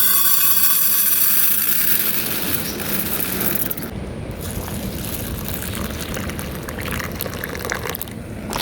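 Liquid pouring, loud at first and tapering off over a few seconds.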